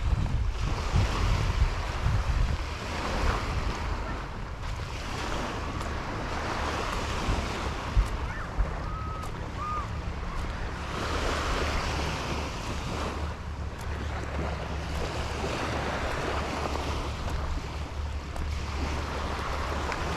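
Surf breaking on the shore, swelling and fading every few seconds, with wind rumbling on the microphone.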